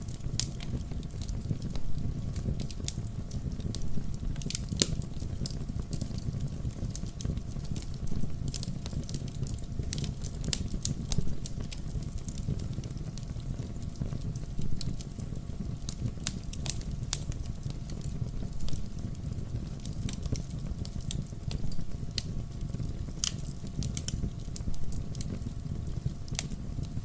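Wood fire burning in a fireplace: a steady low rumble of flame with irregular sharp crackles and pops of burning logs.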